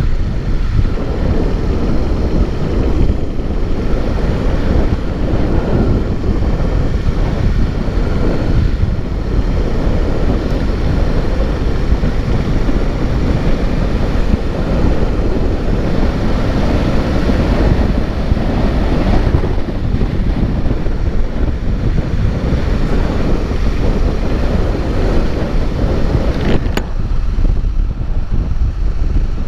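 Steady, loud wind buffeting on the microphone while on the move, a dense low rumble with no breaks.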